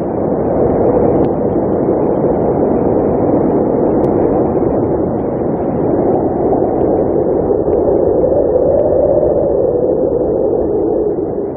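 Blizzard wind blowing hard and steadily: a loud rushing noise that slowly wavers in pitch.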